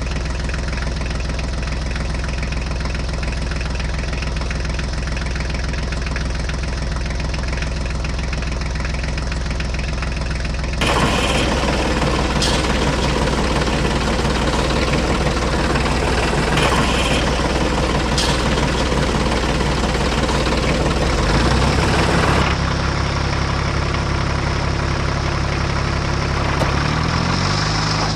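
Tractor engine running steadily, its sound changing abruptly about 11 seconds in and again about 22 seconds in, with the pitch stepping up near the end.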